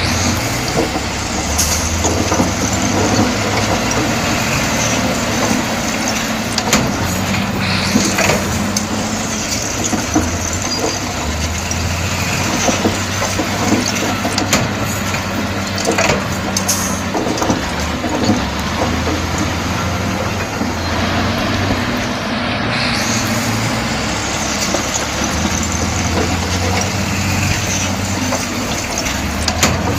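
Komatsu D68E crawler bulldozer's diesel engine running steadily, its pitch and level shifting now and then, with scattered sharp clanks and knocks throughout.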